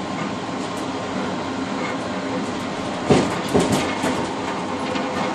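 Passenger train running along the track, heard from inside the rear car's cab vestibule: a steady rumble of wheels on rail, with two sharp wheel knocks over a rail joint about half a second apart, a little past halfway.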